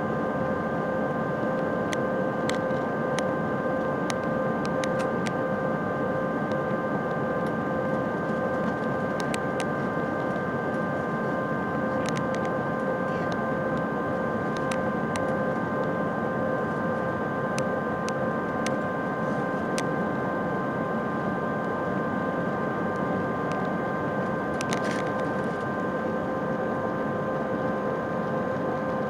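Steady cabin drone of an Airbus A319's IAE V2500 turbofan engines, a constant rushing noise with several high, steady whine tones over it and a few faint clicks.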